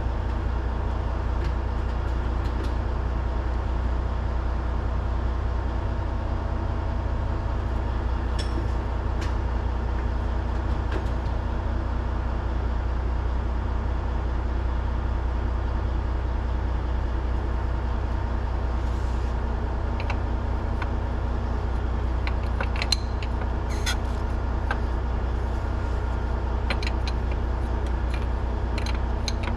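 An engine runs steadily at idle with a constant low drone. Short metallic clicks and clinks of tools come in the second half.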